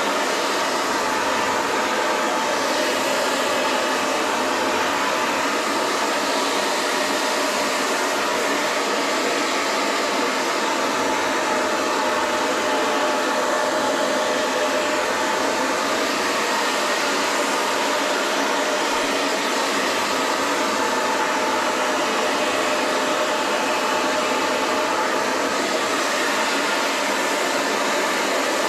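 Hair dryer running steadily, an even blowing whoosh with a faint motor hum in it.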